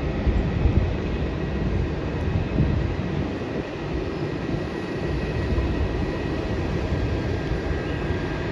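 Jet airliner, a Boeing 787 Dreamliner, coming in to land: a steady roar of engine noise with an uneven low rumble underneath.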